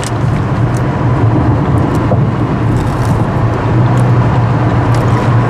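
Road and engine noise inside a moving car: a loud, steady low drone under a constant rushing noise.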